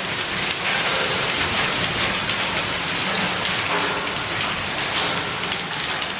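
Hailstorm: hailstones and rain pelting down hard and continuously, a dense clatter of countless small impacts.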